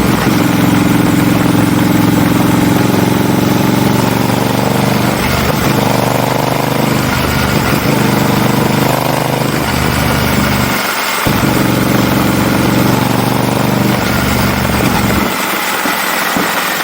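Honda Rebel 1100 DCT's parallel-twin engine running through a PP exhaust muffler. Its note changes several times, with a brief dip about eleven seconds in.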